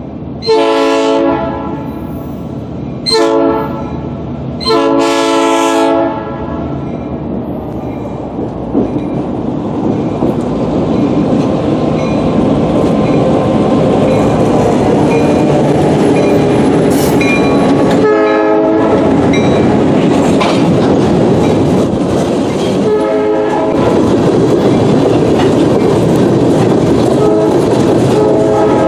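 Norfolk Southern diesel freight locomotive sounding its multi-note air horn long, short, long on the approach to a grade crossing. Then the locomotives' diesel engines and a string of freight cars roll close past with steady wheel clatter on the rails. The horn sounds three more times further down the line.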